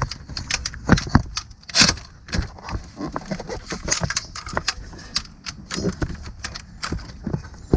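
Irregular metallic clicks and clinks of hand tools and loose bolts being handled while timing cover bolts are taken out of an engine, with one louder clink about two seconds in.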